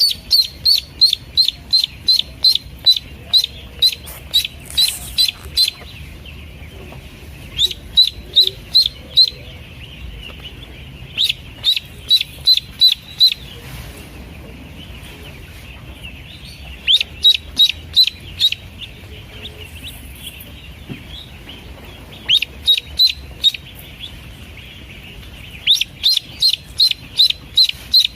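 Newly hatched Pekin ducklings peeping: runs of short, high peeps about three a second, in bouts of a few seconds separated by short pauses, over a steady background of fainter peeping.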